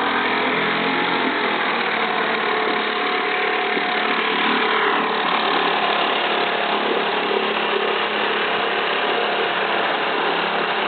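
British Seagull two-stroke outboard motor running steadily, its pitch wavering slightly now and then.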